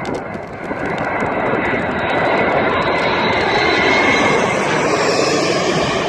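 Aircraft engine noise as a plane flies low overhead: a steady rushing drone with a faint high whine, growing louder over the first couple of seconds and easing off slightly near the end.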